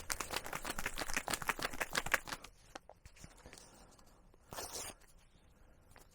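Rapid crinkling and clicking of a drink-mix packet being handled for about two seconds. A short hiss follows a little past the middle.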